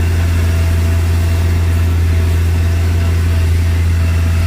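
Farm tractor engine running steadily under load while mowing hay on a steep slope, a constant low drone heard from inside the cab.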